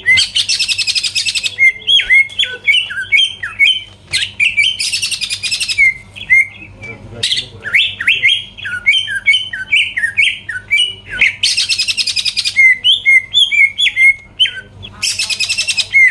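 Cucak ijo (green leafbird) singing in full, continuous song: four dense, fast trills about a second and a half each, alternating with quick runs of slurred, whistled notes.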